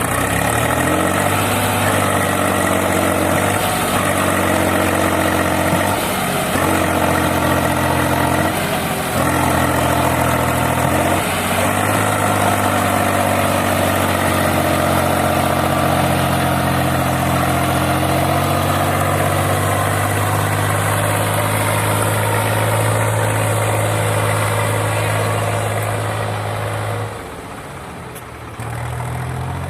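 Heavy diesel vehicle engine running under load, its pitch stepping up and falling back several times, then holding steady. It drops away about four seconds before the end.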